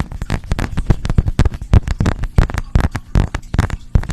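Rapid, irregular close-miked tapping and clicking, about seven sharp hits a second, of the kind made as an ASMR trigger.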